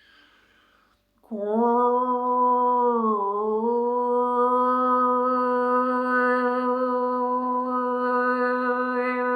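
A voice toning one long held note, light-language style. A breath is drawn first. The note slides up into pitch about a second in, dips once briefly, then holds steady.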